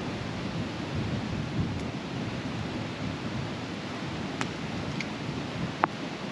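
Low rolling rumble of distant thunder under a steady hiss, with a few sharp ticks in the second half, the sharpest near the end.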